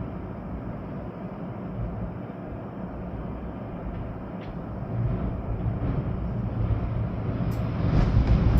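Storm wind gusting through trees with rain: a steady low rushing noise that builds near the end as a stronger gust hits and buffets the microphone.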